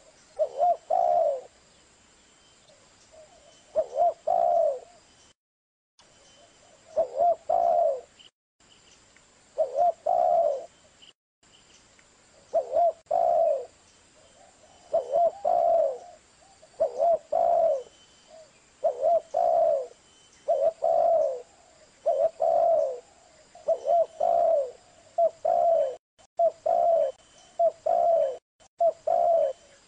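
Zebra dove (perkutut) cooing: repeated phrases of a few quick coos each, spaced a few seconds apart at first, then coming one after another in quicker succession.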